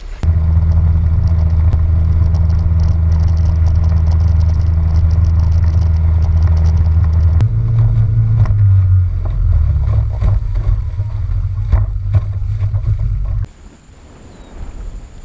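Outboard motor running steadily with the boat underway, a deep even drone. Its tone shifts about halfway through, and it cuts off suddenly near the end.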